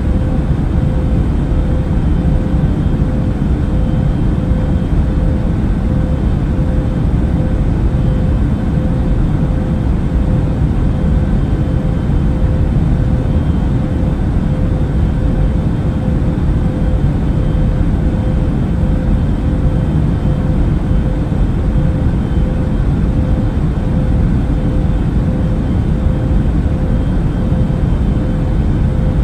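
Airplane cabin noise in flight: a steady, unchanging rumble with a steady mid-pitched hum running through it.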